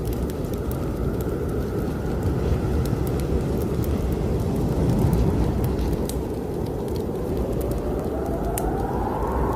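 Howling blizzard wind: a steady low rush with a whistling tone that rises near the end, over scattered crackles of a fireplace fire.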